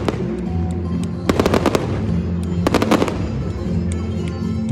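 Fireworks bursting in two rapid crackling volleys of pops, about a second and a half in and again near three seconds, over music playing steadily underneath.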